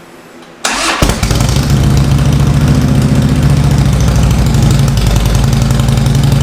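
A 2009 Harley-Davidson Road Glide's V-twin is started: the electric starter cranks for a split second and the engine fires about a second in, then idles steadily. The new starter clutch engages and turns the engine over, where the old worn clutch only let the starter spin freely.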